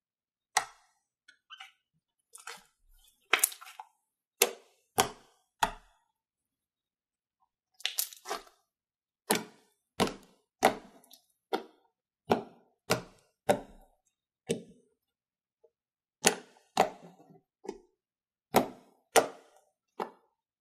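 Slime being pressed and poked, making a run of short, sharp crackling pops, roughly one or two a second, with silence between them.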